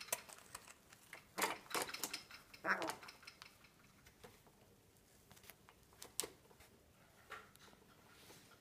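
Irregular small clicks and taps from a Cape parrot playing, bunched in the first three seconds and then only a few scattered ones.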